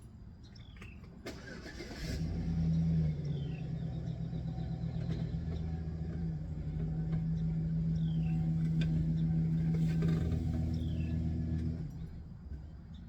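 Pickup truck engine started a second or two in, run for about ten seconds to pull the truck forward a short way, then switched off near the end.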